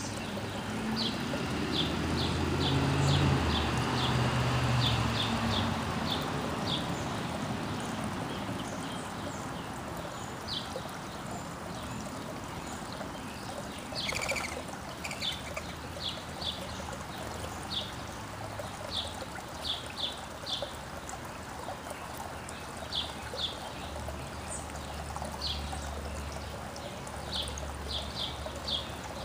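Small backyard songbirds chirping, short high calls repeated over and over, over a steady hiss of outdoor background noise. A low hum swells and fades in the first few seconds.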